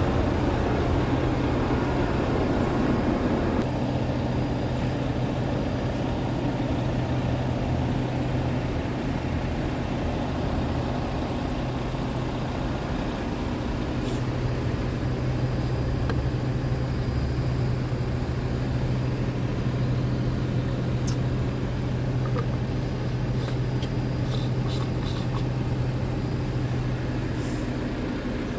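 Scania G truck's diesel engine idling steadily, with a few faint clicks near the end.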